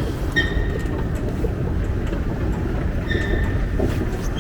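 Subway train running, heard from inside the car: a steady low rumble, with brief high squeals about half a second in and again about three seconds in.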